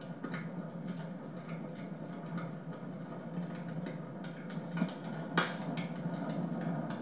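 Wood fire crackling in a home fireplace: a steady bed of small irregular crackles with two sharper pops about five seconds in, over a low steady hum.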